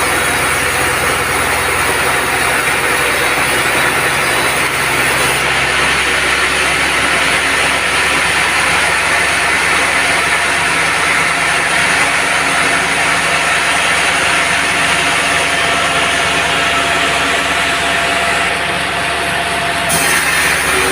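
Band sawmill running steadily, a loud continuous machine noise with a few steady tones; the highest hiss drops briefly near the end.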